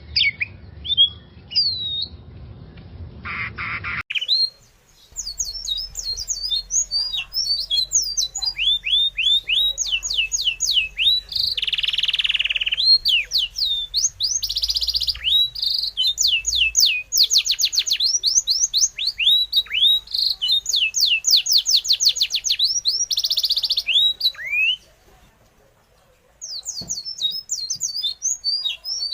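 Birds chirping and squawking: fast runs of high, quick down-sweeping chirps, broken by several harsh squawks, with a brief pause about 25 seconds in.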